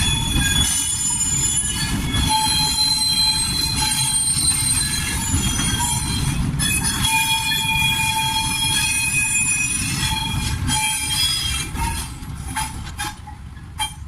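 Freight train wagons rolling slowly, their wheels squealing and screeching in several high, steady, overlapping tones over a low rumble. The sound fades somewhat over the last two seconds.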